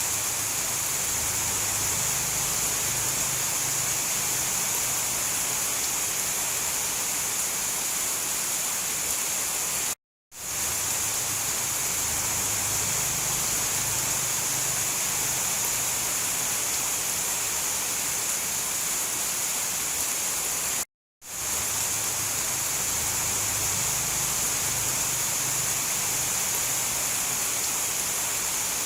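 Steady rain, an even hiss with no thunder. It cuts to silence for a moment about ten seconds in and again about twenty-one seconds in, then fades back up: the seams of a looped recording.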